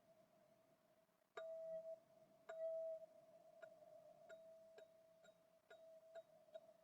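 Golden ZenTube struck over and over, ringing one steady, faint tone. Two firmer strikes come in the first three seconds, then lighter, quicker ones about every half second.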